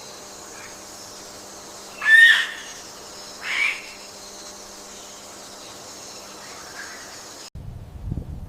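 Two short, high calls of a wild animal, about a second and a half apart, over a faint steady ambience, with a couple of fainter calls after them. Near the end the sound cuts to a low rumble of wind.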